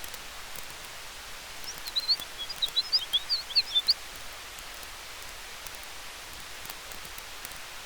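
Campfire and wind ambience: a steady hiss with faint scattered crackles. From about two to four seconds in, a quick run of short, high chirps from a small bird.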